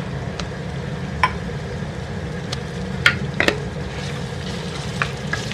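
Keema (minced meat) frying with onions in ghee in a pot, sizzling steadily as a wooden spatula stirs it. The spatula knocks against the pot several times, sharpest a little over a second in and around three seconds in.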